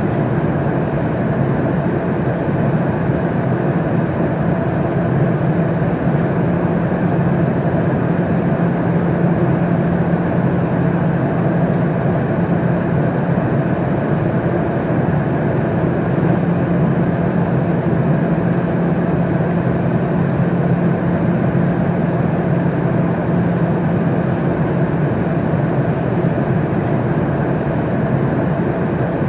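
Steady airplane cabin noise in flight: an even roar of engines and airflow, with a low hum underneath and no breaks.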